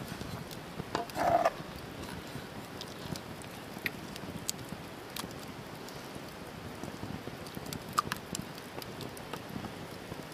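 Wood campfire crackling, with scattered sharp pops over a low steady hiss, and a brief louder sound about a second in.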